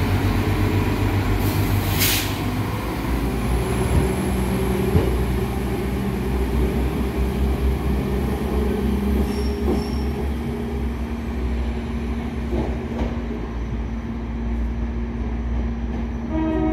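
NI Railways Class 4000 diesel multiple unit pulling away from the platform: a steady diesel rumble with a thin, high wheel squeal on the curved track. A single sharp knock about two seconds in.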